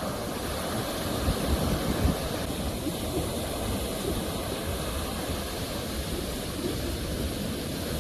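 Sea waves breaking and washing onto the shore: a continuous surf noise with a deep rumble, swelling a little louder between one and two seconds in.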